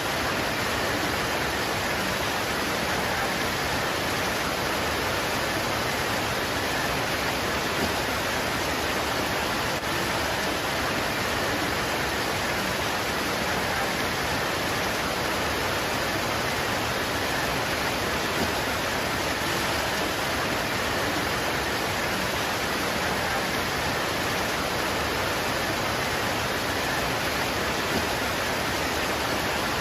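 Steady rain pouring onto leaves, an even hiss at a constant level.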